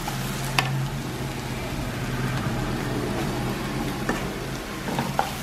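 Onions and spice powders sizzling in a nonstick pan, with a few sharp clicks of a spatula against the pan over a steady low hum. The masala is being fried until the powders lose their raw smell.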